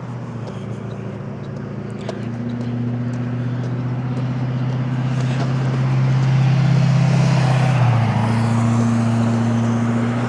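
An old fire truck's engine drones louder as it approaches along the road with tyre noise, then passes. Its engine note drops in pitch about eight seconds in as it goes by.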